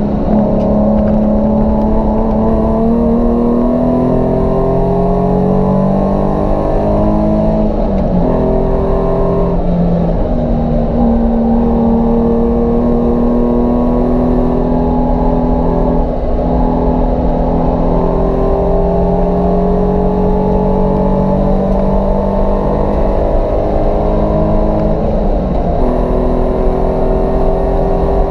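Nissan 350Z's 3.5-litre V6 engine running under load, its pitch climbing slowly for several seconds at a time and dropping back several times, with steady road and tyre noise underneath.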